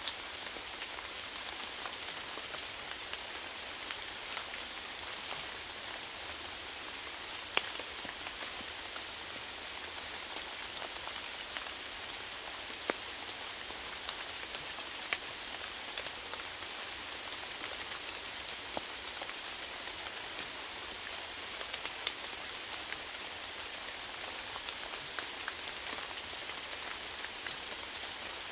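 Steady rainfall pattering on a surface, with the sharper ticks of single drops landing now and then, the loudest about a third of the way in.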